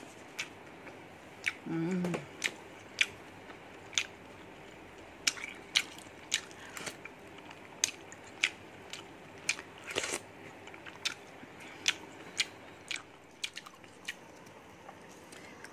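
A person chewing food close to the microphone: wet mouth clicks and lip smacks at irregular spacing, about one or two a second, with a brief hum of voice about two seconds in.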